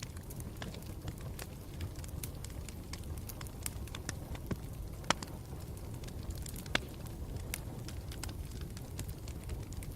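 Campfire burning with a steady low rumble and frequent sharp crackles and pops from the burning wood, the loudest pops about five and seven seconds in.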